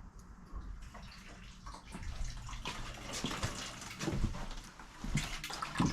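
Water running and splashing out of an opened plumbing line at a low point as the shut-off system drains, getting heavier over the second half.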